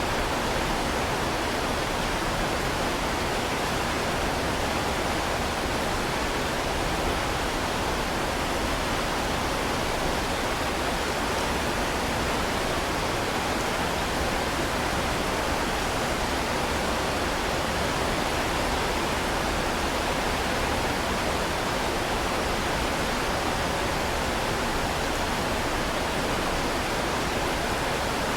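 Heavy rain falling, a steady, even hiss with no separate drops or changes.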